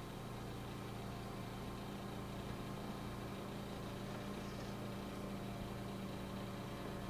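Steady machine hum: a constant low tone with many even overtones, unchanging throughout.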